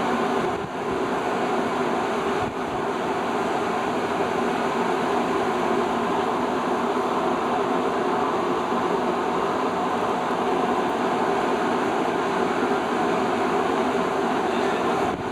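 Research ship under way: a steady drone of engines and machinery mixed with rushing wind and water, with two brief dips in level near the start.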